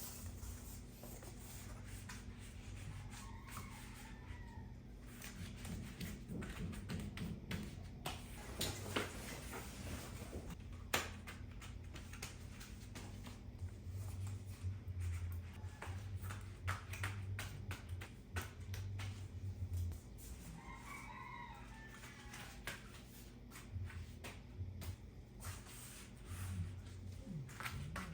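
A rooster crowing twice in the distance, once a few seconds in and again about two-thirds through, over a low steady hum and scattered light clicks and knocks of objects being handled.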